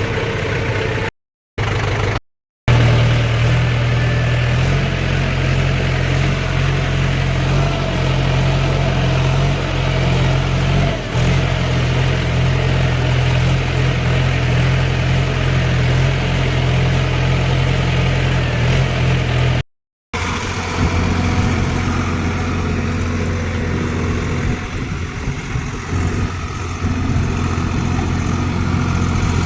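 Diesel tractor engine running steadily, cut off abruptly by short gaps of silence about a second in, about two seconds in and just before twenty seconds, with the engine note changing after the last gap.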